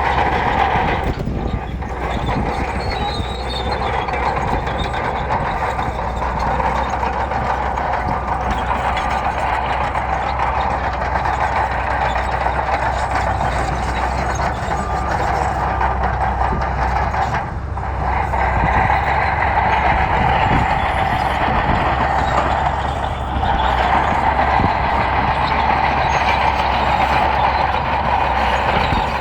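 Bulldozer working, its diesel engine running under load with the steel tracks grinding, steady throughout with three short dips in level.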